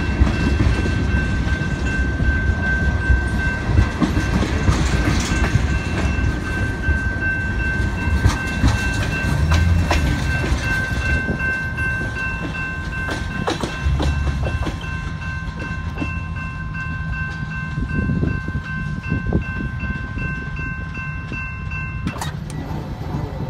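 Freight train of tank cars and hoppers rolling past a grade crossing, its wheels clacking over the rail joints. A crossing warning bell rings steadily over the train and stops abruptly near the end.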